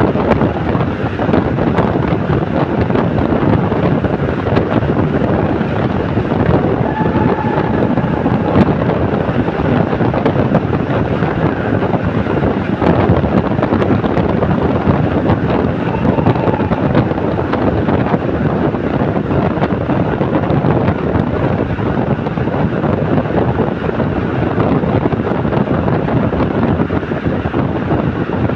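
Steady, loud wind noise buffeting the microphone, as heard while travelling in a moving vehicle.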